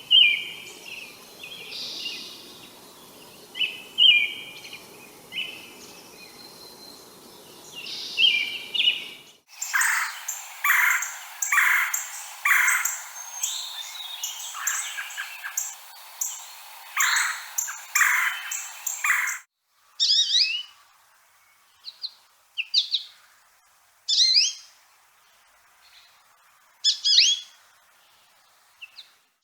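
Bird songs and calls from three different recordings spliced one after another. First, short call phrases repeated every second or two. About 9 s in, a denser, louder run of varied chattering notes. About 19.5 s in, short sharp falling notes in small groups with gaps between.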